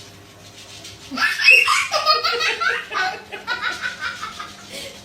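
Laughter, starting about a second in and going on in repeated bursts.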